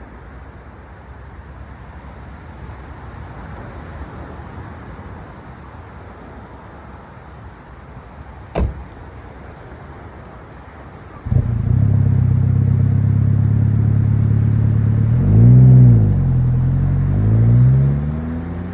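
Saab 900 Turbo 8-valve inline-four engine: after a faint hiss and a single click, the engine comes in abruptly about eleven seconds in and runs at a steady idle. Near the end it is revved twice in quick blips, the pitch rising and falling each time.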